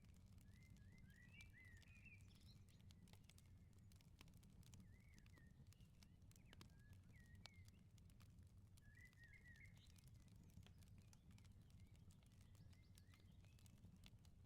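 Faint wood fire crackling in a garden firepit, with scattered small pops, over a steady low rumble. Small birds chirp in short twittering phrases throughout, busiest about two seconds in and again around nine to ten seconds in.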